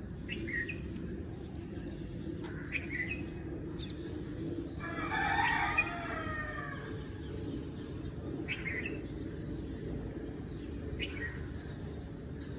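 Outdoor birdsong: a loud, pitched bird call lasting about two seconds, midway, among a few short chirps from small birds, over a steady low background rumble.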